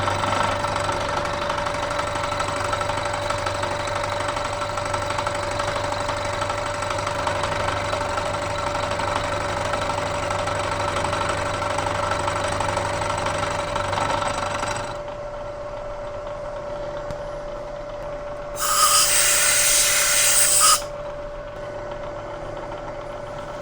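Bridgeport milling machine end-milling a metal block at a 0.075-inch depth of cut, the cutter working steadily through the metal for about fifteen seconds. Then the cut ends and the spindle keeps running more quietly. A loud hiss lasting about two seconds comes near the end.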